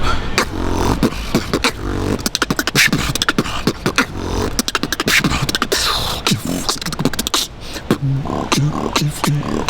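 Vocal beatboxing: a fast run of mouth-made kick, snare and click sounds mixed with short hummed bass tones.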